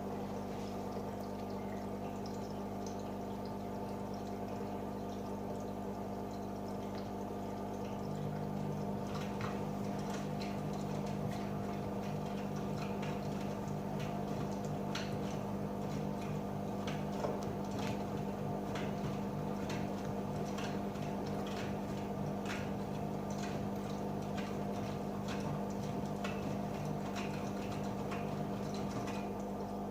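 AEG Öko-Lavamat 88840 washing machine running mid-wash: water trickling and sloshing with light drips and clicks over a steady machine hum. About eight seconds in a second, lower hum joins and the sound gets a little louder.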